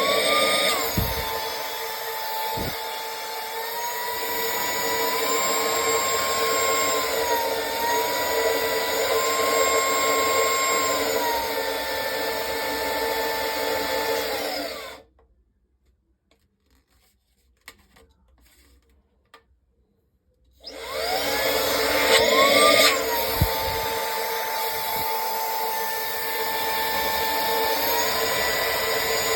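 Cordless electric air duster's high-speed motor running with a steady whine whose pitch steps up and down several times as it changes speed. About halfway through it is switched off, and after several seconds of near silence it starts again, spinning up to a higher whine before settling.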